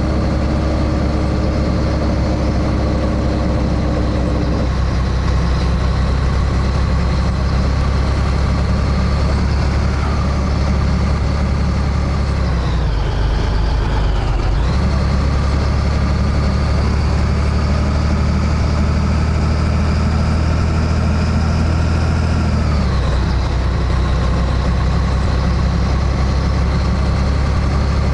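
Scania 113H truck's diesel engine pulling under load, its revs climbing slowly and then dropping sharply at gear changes about ten seconds in, around thirteen to fourteen seconds, and again near twenty-three seconds.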